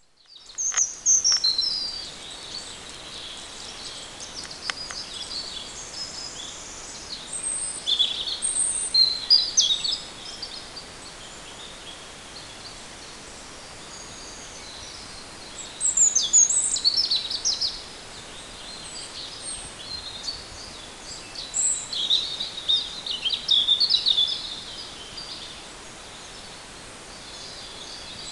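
Several songbirds chirping and singing in a forest, in bursts of high, fast warbling phrases over a steady hiss of background noise.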